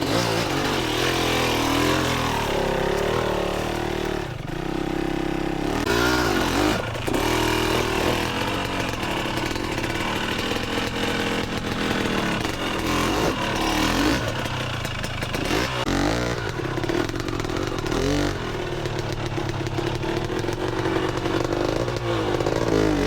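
Two-stroke dirt bike engine running throughout, its revs rising and falling again and again as the throttle is worked over rough trail.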